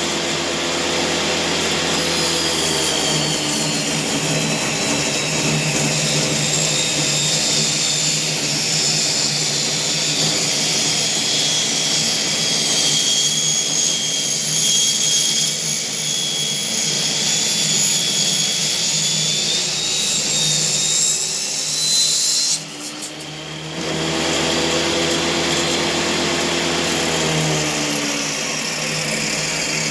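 Table saw running and cutting boards, its motor pitch sagging and recovering as the blade works through the wood. The sound drops away for about a second roughly two-thirds of the way through, then the saw runs on.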